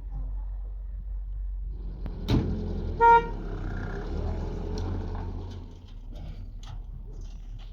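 A short, single toot of a vehicle horn about three seconds in, just after a sharp knock, over a steady low rumble.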